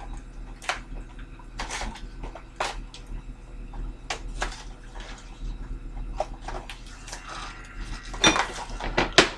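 Keurig K-Mini single-serve coffee maker brewing: a low steady hum under irregular clicks and spits as the water is pumped through the pod, with two louder ones near the end.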